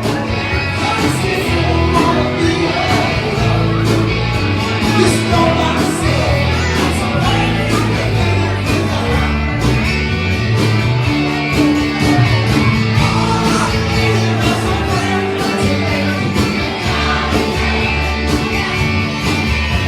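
Live band playing amplified rock music, with drums, bass, guitar and a singer, in a large room.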